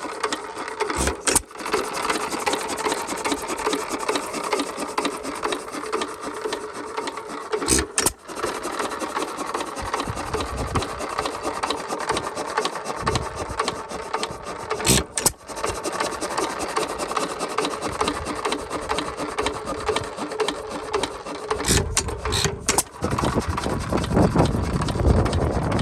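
1 1/2 HP Worthington hit-and-miss engine running with a steady fast clatter, firing with a sharp bang about once every seven seconds and coasting between; near the end it fires several times in quick succession.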